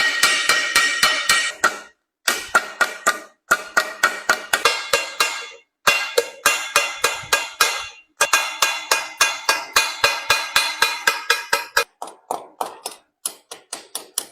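Hammer striking sheet metal by hand in quick runs of about four or five blows a second, each blow ringing, with short pauses between runs.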